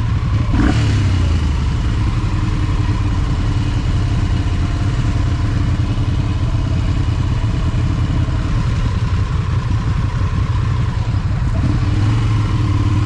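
Motorcycle engine running steadily while riding in traffic, with a single short clunk a little under a second in.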